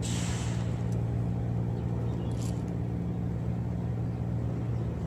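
An engine running steadily with a low, even hum that stops near the end, opening with a brief hiss.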